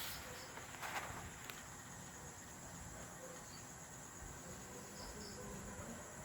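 Faint background with a steady high-pitched trill of insects.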